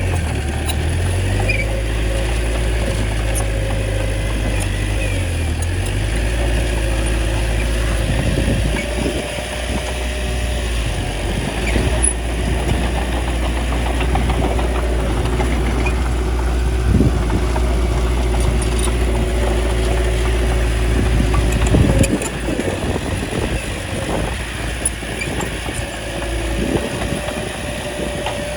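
Bulldozer's diesel engine running steadily, with several sharp clanks and knocks from the machine as it works. The low engine note falls away somewhat about three quarters of the way through.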